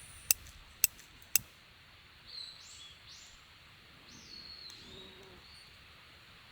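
Three sharp clicks about half a second apart, then a bird calling several times with short, falling whistled notes.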